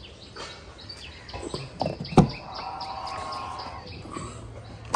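Small birds chirping repeatedly. A sharp click comes about two seconds in, followed by a short steady hum, and another click near the end.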